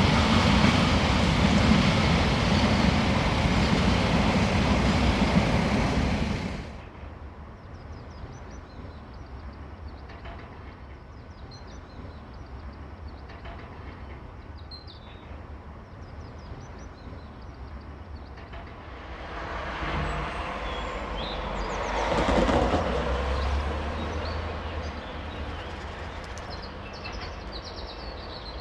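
A train passing at speed, a loud steady rush, cut off abruptly about seven seconds in. Then quieter trackside ambience with birds chirping, and a second train swelling up and fading away about two-thirds of the way through.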